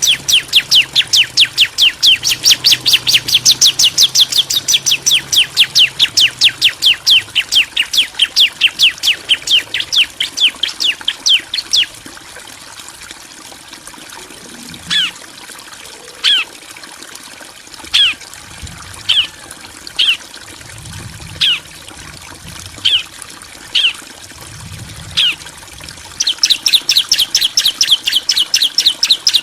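Bar-winged prinias calling: a fast, loud run of sharp, downward-sweeping chirps, about four a second, that breaks off, gives way to single spaced chirps roughly once a second, then resumes near the end. These are male and female answering each other.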